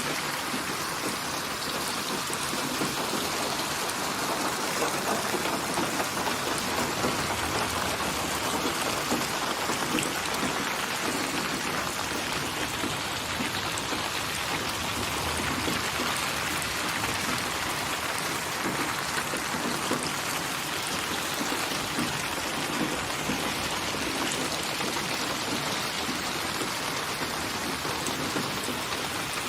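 Steady rain falling, a dense even hiss of many drops pattering on a surface.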